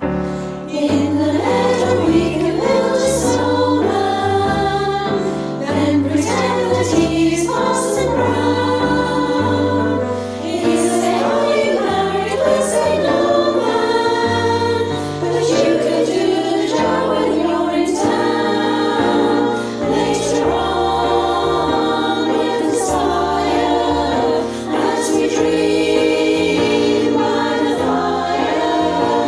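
Women's choir singing a song together, with sustained low accompaniment notes underneath.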